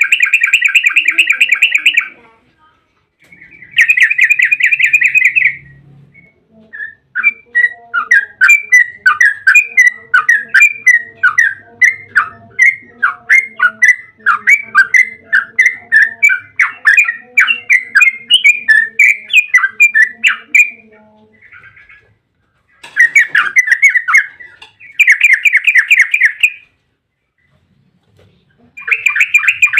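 Yellow-vented bulbul (trucukan) singing: dense two-second bursts of fast chattering notes, then a long run of rapid bubbly notes lasting about fourteen seconds, then more short bursts near the end.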